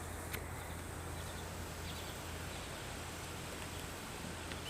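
Quiet background with a steady low hum and a couple of faint, short, high-pitched chirps.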